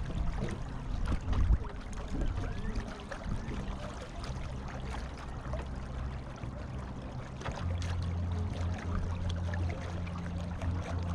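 Water sloshing and trickling along the hull of a small sailboat under way, with a steady low hum underneath.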